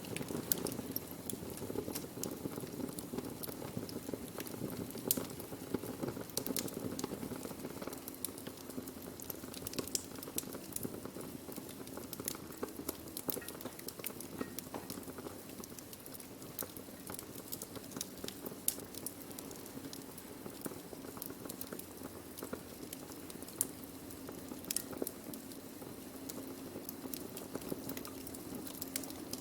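Wood fire burning steadily, with a constant low rush of flame and frequent sharp crackles and pops from the burning wood.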